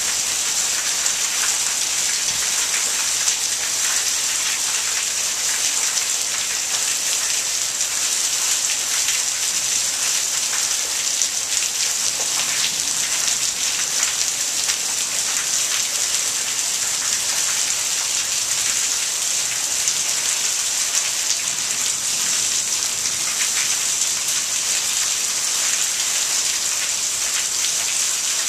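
Heavy monsoon rain pouring down steadily, a dense hiss of drops hitting the ground and surfaces. No thunder is heard.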